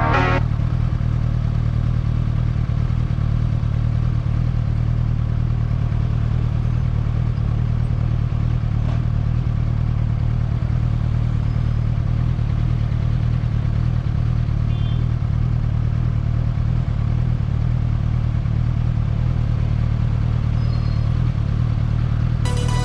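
Motorcycle engine running at steady revs while cruising, a constant low-pitched engine note that holds the same pitch throughout, with no revving or gear changes.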